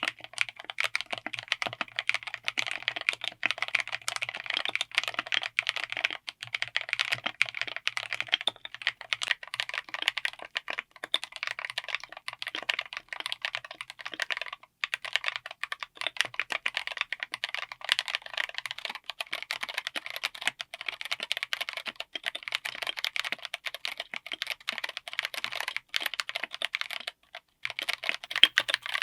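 Mechanical keyboard with tactile switches being typed on rapidly: a dense, continuous run of key clicks and clacks. It breaks off briefly a few times.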